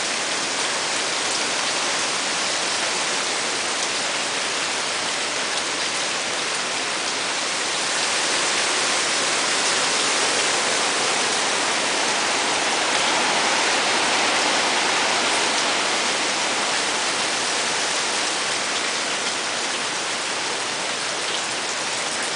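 Hurricane rain and wind: a steady, loud rush of heavy rain that swells louder for several seconds in the middle.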